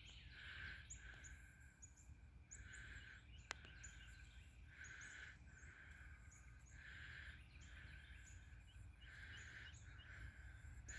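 Quiet outdoor ambience with faint distant bird chirps repeating through it, and a single click about three and a half seconds in.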